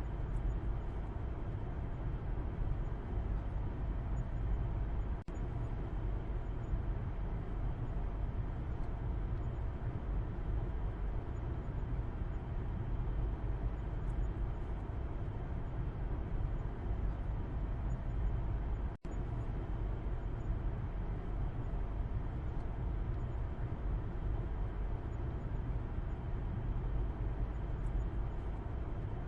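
Steady road and engine rumble inside a moving car, heard from the back seat, strongest in the low end. There are two momentary dropouts in the sound, about five seconds in and near the middle.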